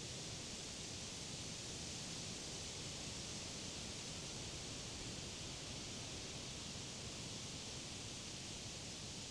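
Wind blowing through the leaves of summer trees and grass: a steady, even rustling hiss with a low rumble underneath.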